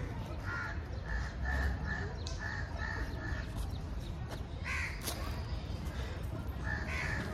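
Birds calling outdoors: a quick run of about seven short, even notes starting about a second in, then single calls later on, over a steady low rumble.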